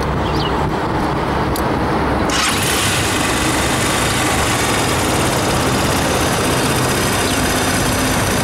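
Viper V250L enduro motorcycle's 250 cc four-stroke overhead-cam Zongshen engine idling steadily, with a soft, bassy exhaust note. A hiss joins the engine sound suddenly about two seconds in.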